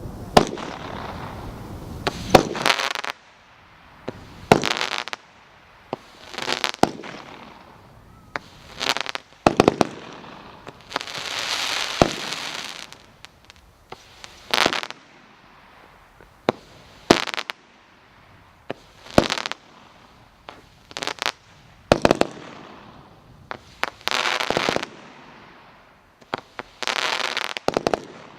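Red Rhino 'Nemo' 500-gram fireworks cake firing shot after shot, roughly one every two seconds. Each shot is a sharp bang followed by a noisy tail of up to about a second.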